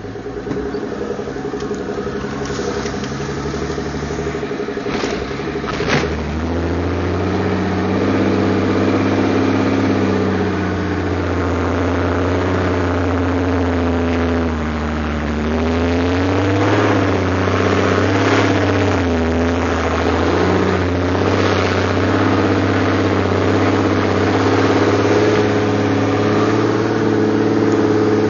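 Large Toyota's engine running under load while driving over desert sand, heard from inside the cab. The engine pitch and loudness climb about six seconds in, dip briefly near the middle and rise again, with two sharp knocks around five and six seconds in.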